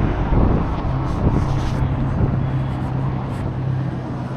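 Steady street noise heard from a moving bicycle: a low rumble of traffic and rolling tyres under a steady low hum.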